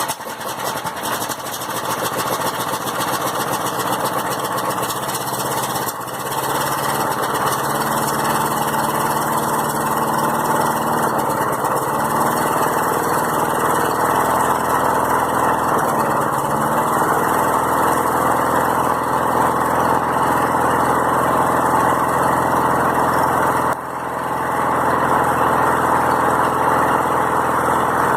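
Small lawnmower engine running just after a cold pull-start, a little louder from about six seconds in. Its speed dips a few times and sags briefly near the end: it is struggling to stay running, which the owner blames on Sea Foam added to the fuel.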